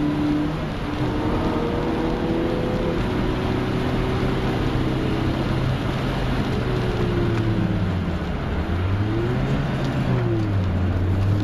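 Mk1 VW Golf cabriolet's 1.8-litre fuel-injected four-cylinder engine running under load, heard from inside the cabin over tyre and road noise. The engine note holds fairly steady, then about eight seconds in it drops and rises again twice.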